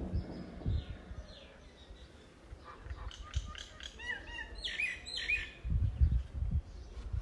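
Small birds chirping: a quick run of short chirps about three seconds in, then a few louder, sweeping chirps a second or two later.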